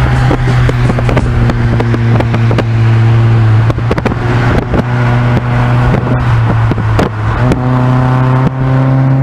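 Car engine droning steadily at highway cruising speed, heard from inside a moving car with the window open, with its pitch stepping up slightly about seven and a half seconds in. Wind buffets and flaps on the microphone throughout.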